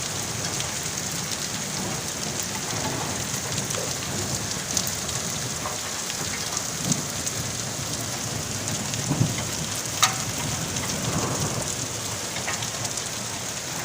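Steady rain falling and pattering on surfaces, with scattered sharper drop hits; one stands out about ten seconds in.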